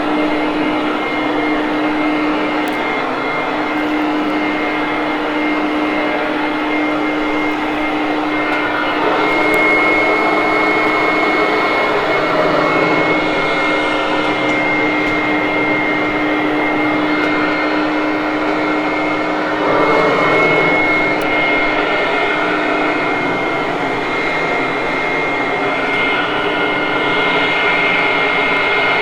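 Hoover Conquest upright vacuum cleaner running steadily while vacuuming carpet: a constant motor whine with a low and a high held tone, swelling slightly about ten and twenty seconds in.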